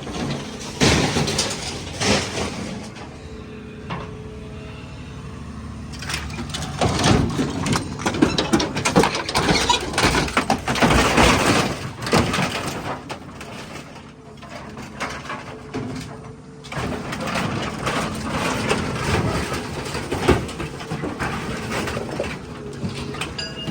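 Excavator running while it tears and crushes scrap truck bodies: metal crunching, scraping and clanking over the steady hum of the machine, heaviest in two long spells.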